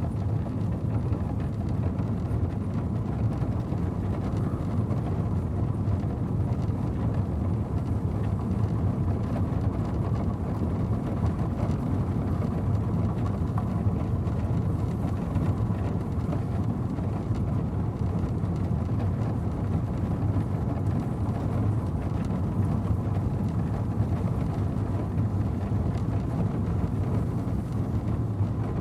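Horse-drawn stagecoach with a four-horse team on the move, a steady low rumble without distinct hoofbeats.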